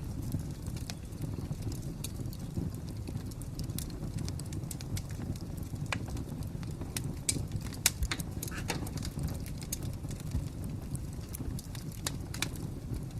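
Wood fire crackling: irregular sharp pops and snaps over a steady low rumble, with one louder pop about eight seconds in.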